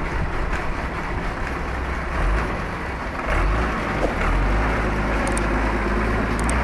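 Modified Mahindra 575 tractor's six-cylinder diesel engine running with a deep, steady rumble that gets louder about three seconds in.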